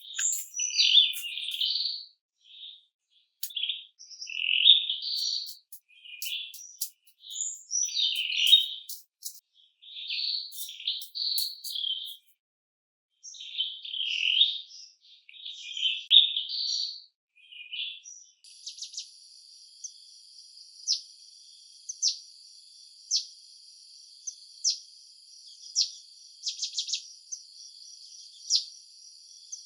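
Songbirds singing in short, rapid chirping phrases. About two-thirds of the way through they give way abruptly to a steady, high-pitched insect drone, with a sharp chirp about every second.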